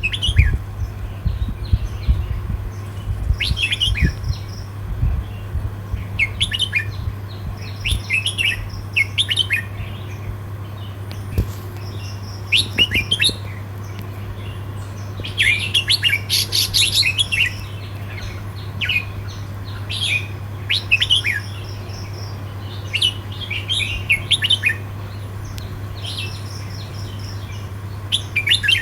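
Red-whiskered bulbul singing: short bursts of quick, bright warbled phrases with gaps of a second or two between them, the densest run about halfway through, over a steady low hum.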